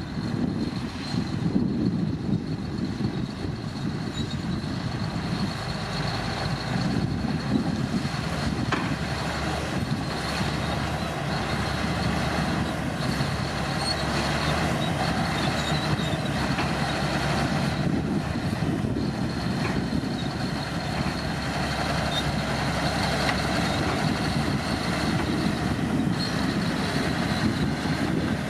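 Komatsu D65P bulldozer's diesel engine running steadily, with a thin high whine over it.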